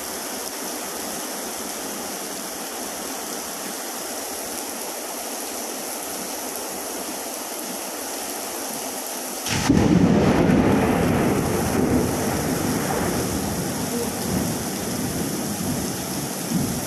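Steady hiss of heavy rain, then about halfway through a sudden crack of thunder that rolls on as a loud rumble, slowly easing off.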